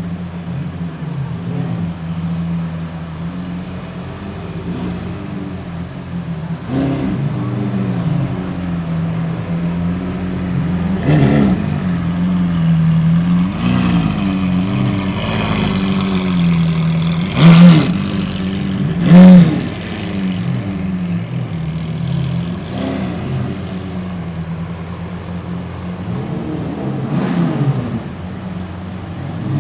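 Lamborghini engines idling, with a series of quick throttle revs that rise and fall; the two loudest revs come close together a little past the middle.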